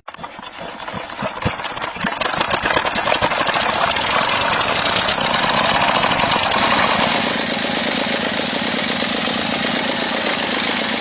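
Small DC motor of a homemade mini water pump running with a fast rattle, building up over the first couple of seconds and then holding steady.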